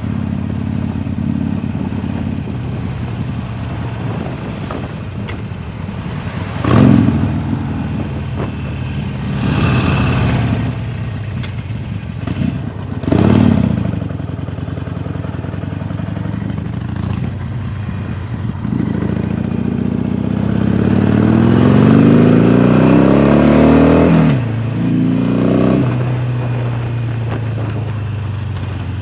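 Harley-Davidson Sportster Forty-Eight's V-twin running through a Jekill & Hyde valve exhaust while riding. It takes short bursts of throttle about a third of the way in, then pulls hard with a rising pitch for about five seconds. It drops off suddenly at a shift, revs briefly once more, and settles back to a steady run.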